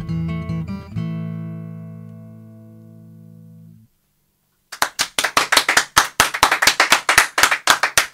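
Acoustic guitar strummed to a final chord that rings out and slowly fades. After a brief gap, an audience claps.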